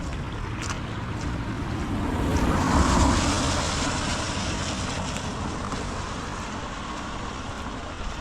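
A vehicle passing on a rain-wet road: the hiss of its tyres swells to a peak about three seconds in, then slowly fades away, over the steady patter of rain.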